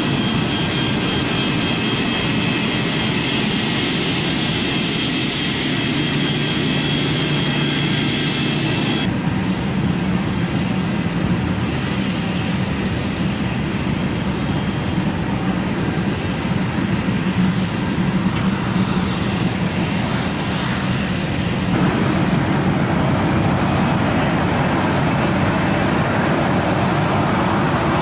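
Jet airliner engines running, with a high whine over a steady rush for the first nine seconds or so. The sound changes suddenly about nine seconds in and again near the end, losing the whine, as the film cuts between shots.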